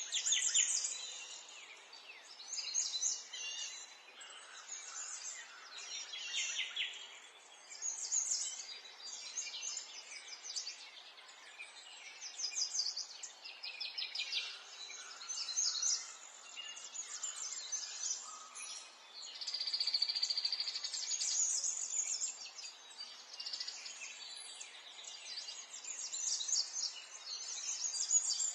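Several small songbirds chirping and trilling in overlapping bursts, with a longer buzzing trill about two-thirds of the way through, over a steady soft background hiss.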